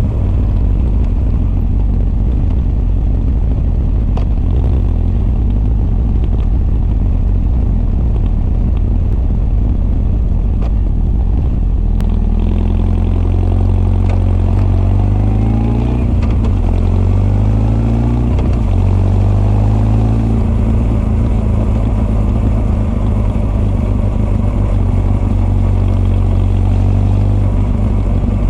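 Honda CB1300 SF's inline-four engine, heard through its Keihin FCR41 carburettor intake and r's gear Wyvern exhaust, running at a steady note while riding. About midway its pitch rises and falls several times, then it settles back to a steady run.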